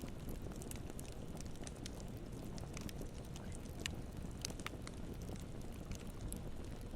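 Campfire burning with a steady low rumble, broken by scattered sharp crackles and pops of the burning wood.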